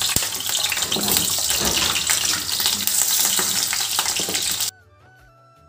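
Potato chunks sizzling as they fry in hot oil in a frying pan, turned with a spatula. The sizzle cuts off abruptly near the end, leaving faint soft music.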